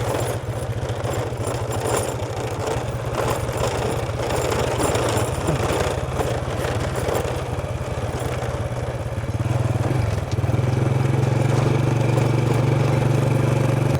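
Motorbike engine running while riding, with wind and road noise rushing over the microphone. About ten seconds in, the engine note becomes louder and steadier.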